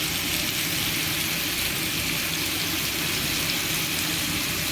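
Chicken wings frying in a pan with chili sauce: a steady sizzling hiss over a faint low hum.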